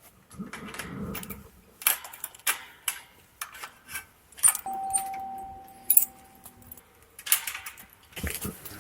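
Keys jangling with a run of sharp clicks, as of keys handled at a lock. About two seconds of a steady single tone sounds midway through.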